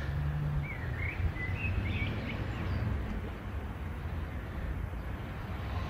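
Steady background rumble and hiss with a few short bird chirps in the first half.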